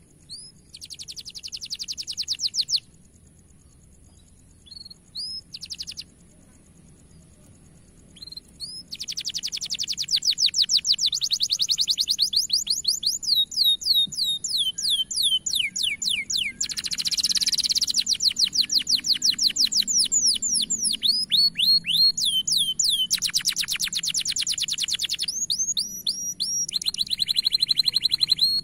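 Domestic canary singing: a short rapid trill near the start, a few scattered chirps in a pause of several seconds, then a long unbroken song of fast repeated trills and sweeping notes from about a third of the way in.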